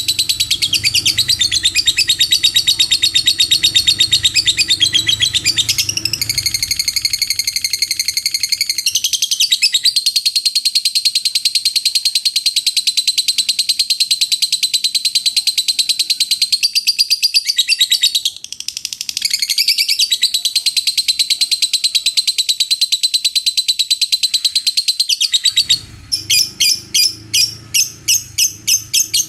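Lovebird giving its long 'ngekek' chatter: a fast, unbroken, high-pitched trilling run of shrill notes with one brief break partway through. Near the end it changes to separate sharp chirps, about four a second.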